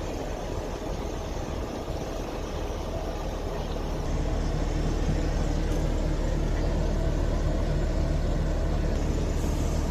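A heavy engine running steadily with a low hum, getting louder about four seconds in.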